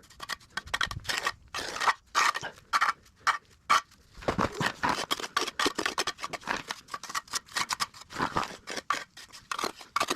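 Cement mortar being worked with a hand trowel: short scraping strokes in an uneven run.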